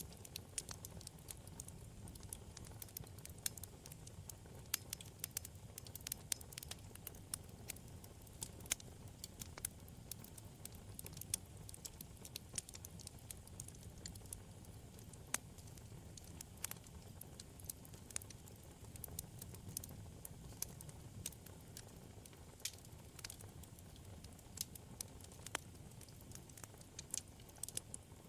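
Wood fire in a fireplace crackling: frequent, irregular sharp pops and snaps over a low, steady rumble of burning flames.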